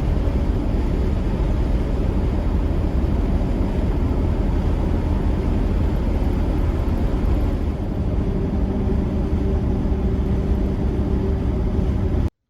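Steady vehicle engine and road noise, as from a vehicle on the move, heavy in the low end. It cuts in and cuts off abruptly.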